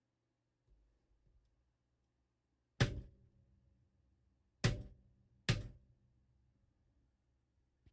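Three sharp knocks, each with a short ringing tail: one, then about two seconds later two more close together.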